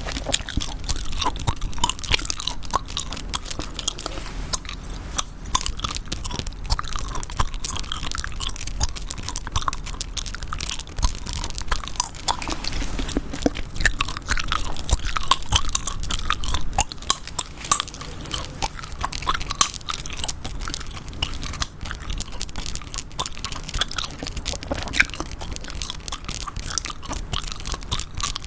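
Chewing gum being chewed close to the microphone: a continuous run of small clicks and smacks.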